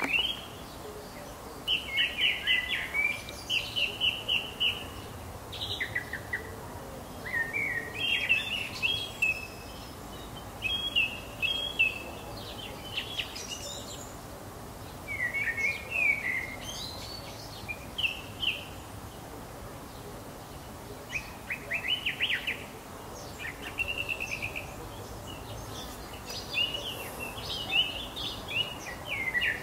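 Birdsong: short chirping phrases and trills repeated again and again with brief pauses, over a steady faint hiss.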